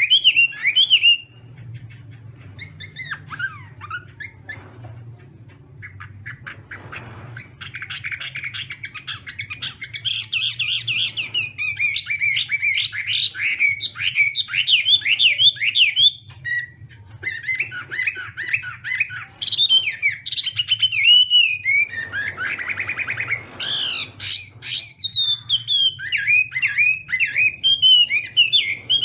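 Chinese hwamei singing: long, loud runs of rapid, varied whistled notes, quieter for the first few seconds and broken by a short pause past the middle. A steady low hum runs underneath.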